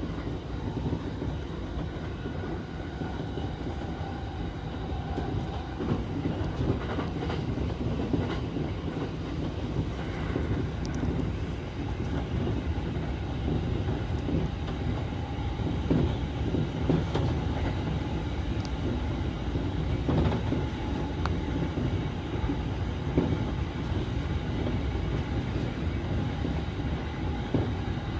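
Electric commuter train running along the track, heard from inside the car: a steady rumble of wheels on rail with scattered sharp clacks over rail joints.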